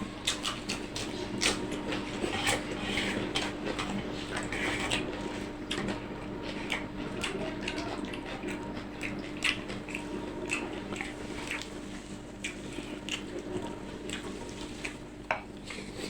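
A person chewing and eating close to the microphone: wet smacking and squishing with frequent short clicks, over a steady low hum.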